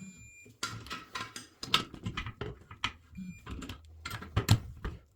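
Irregular knocks and clatter of hard objects being handled, loudest a little after four seconds in, with brief faint high beeps near the start and about three seconds in.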